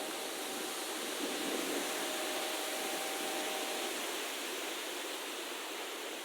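Steady outdoor rushing noise, even and unbroken, with a faint steady hum underneath for the first few seconds.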